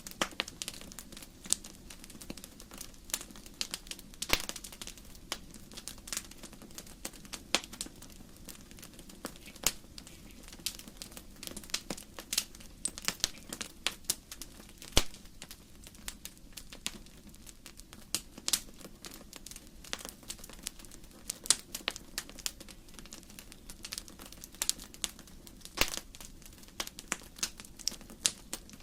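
Wood fire crackling in a fireplace: frequent irregular sharp pops and snaps over a steady low hiss of the flames.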